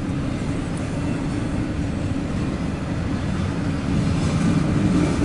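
Steady low rumble of an idling engine, growing slightly louder about four seconds in.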